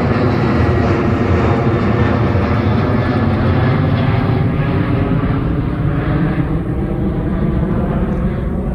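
Jet airliner's engines running loud with a steady whine over a heavy rush, then slowly fading, the hiss dying away over the last few seconds as the aircraft moves off.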